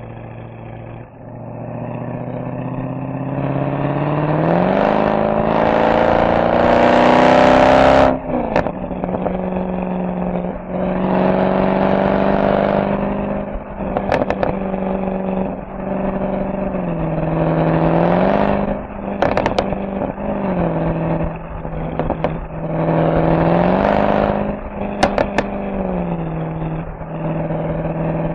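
Mercedes SL63 AMG V8 exhaust under hard acceleration, its note climbing for several seconds before cutting off suddenly. It then holds a steady cruising note with a few brief lifts and re-applications of throttle, with sharp exhaust crackles on a few of the lifts.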